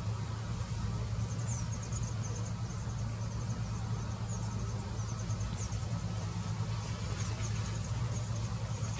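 Steady low hum, with faint runs of rapid, high-pitched chirping several times over it.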